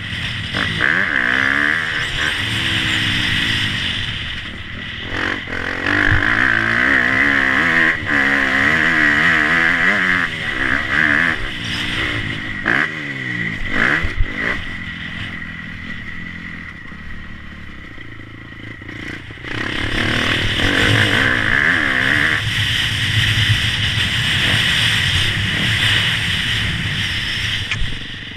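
Motocross bike engines revving up and down repeatedly as they ride, dropping away for a few seconds past the middle and coming back loud at about twenty seconds.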